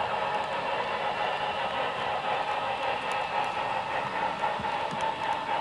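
A freight train running steadily: an even rolling noise with a faint steady whine and a few light clicks.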